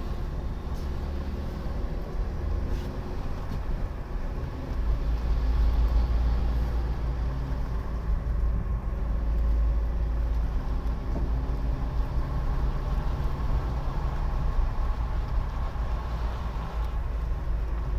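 A car being driven, with a steady low rumble of engine and road noise that grows louder about five seconds in.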